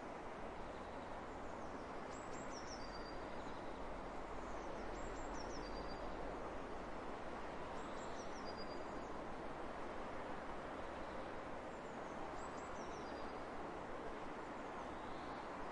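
Steady wind across open fields, an even hiss, with a bird repeating a short high call of a few quick falling notes four times.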